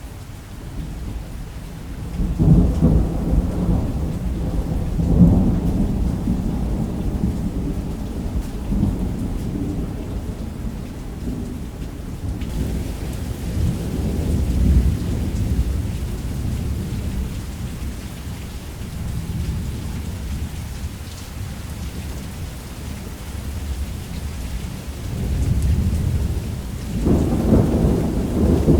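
Thunder rumbling over steady heavy rain. A long rolling rumble builds about two seconds in and dies away slowly, and another swells up near the end.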